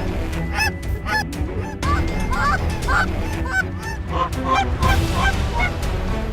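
Geese honking: many short honks and clucks, several a second and overlapping, over a steady low rumble.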